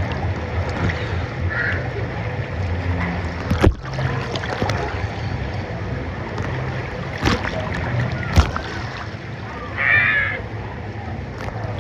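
Steady rush of water on a water-park tube river, with a few sharp knocks and a brief high call about ten seconds in.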